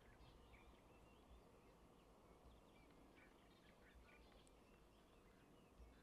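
Near silence with faint, scattered bird chirps over a low background hum.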